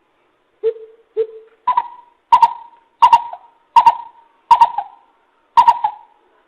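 Coucal (bìm bịp) calling: a series of hoots. Two lower notes come first, then a steady run of higher notes about 0.7 s apart.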